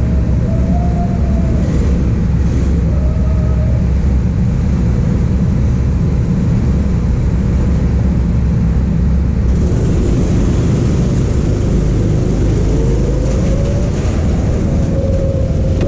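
Go-kart engine running under a heavy low rumble, its pitch rising and falling as the kart speeds up and slows. About nine and a half seconds in, a hiss comes in suddenly on top and stays.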